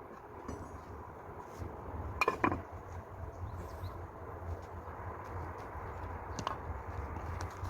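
A few sharp clinks and knocks of hard objects handled against each other, three in all, over a low steady hum.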